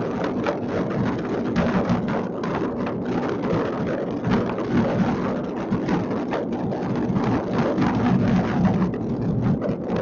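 Many fireworks going off across a city at once: a dense, continuous crackling and popping of countless distant bursts that merge into a steady rumble.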